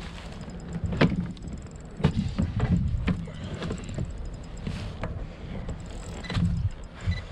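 Scattered knocks and clunks on a kayak as a catch is shifted and stowed, over a low rumble of wind on the microphone.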